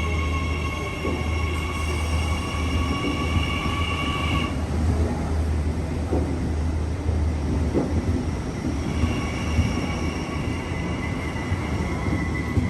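New Intercity Fleet D set electric train moving through the platform: a heavy low rumble that fades about eight seconds in, with a steady high-pitched whine of several tones that stops about four and a half seconds in and returns about nine seconds in.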